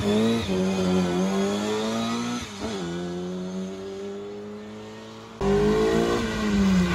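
Rally car engine pulling away and revving up, with a change in pitch about two and a half seconds in, then fading as it goes off into the distance. A little over five seconds in there is an abrupt jump to another rally car's engine, loud and close, its note falling steadily.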